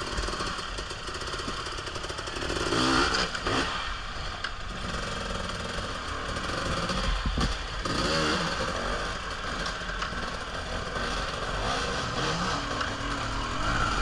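Dirt bike engine running and revving up and down, with its pitch rising and falling about three seconds and eight seconds in.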